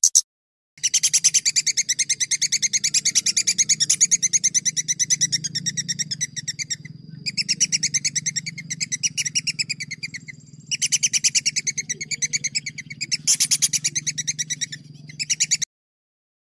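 Songbird singing long rolling trills of rapidly repeated high notes, in several phrases with short breaks, over a faint low hum.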